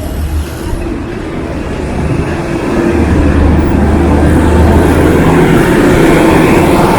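Street traffic with a motor vehicle's engine running close by, a low rumble that grows louder a couple of seconds in and holds steady.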